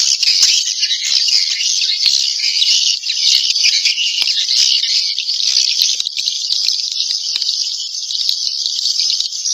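Edible-nest swiftlets twittering in a dense, unbroken high chatter of overlapping chirps: a recorded 'inap' (roosting) swiftlet call, the type of lure sound played in swiftlet houses to draw the birds in to roost.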